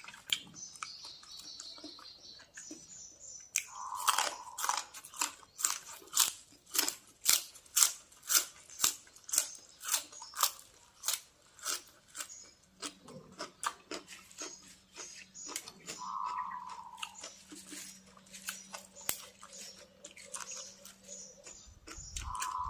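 Close-miked chewing of pork with chili dip: a run of crunchy bites and chews at about two a second, loudest for the first half and quieter after that.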